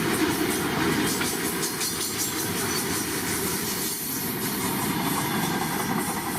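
A train rolling past on the track, its wheels clattering steadily over the rail joints with a rapid run of clicks.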